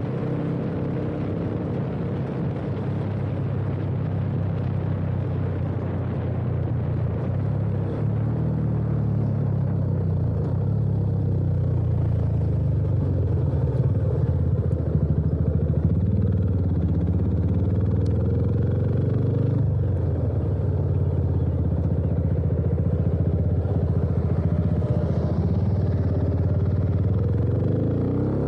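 A Yamaha FZ25 single-cylinder engine running through an aftermarket full exhaust (header pipe and Akrapovič-replica slip-on) as the bike is ridden along at a fairly steady engine speed. The deep exhaust note holds steady, with the pitch starting to shift near the end.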